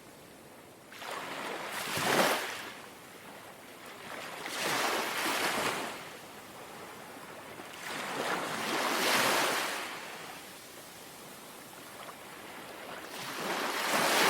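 Small, gentle sea waves lapping onto the shore, four washes in a row about every three to four seconds, each swelling and then fading away.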